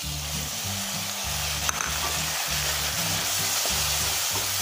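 Onions, garlic and freshly added tomato slices sizzling in hot oil in a kadhai, stirred with a wooden spatula, with one brief tap about a second and a half in.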